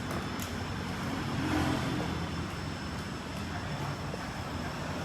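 3 kW CNC fiber laser cutter with a Raytools BM111 head cutting 6 mm carbon steel plate: a steady hiss of cutting and machine noise with a faint thin high whine, and a sharp click or two near the start.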